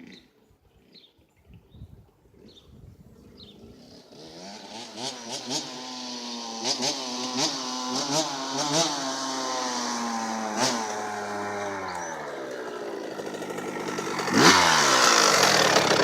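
Small two-stroke dirtbike engine (KTM 65) coming closer and revving in short blips, its pitch dropping off, then a sharp hard rev near the end, the loudest part.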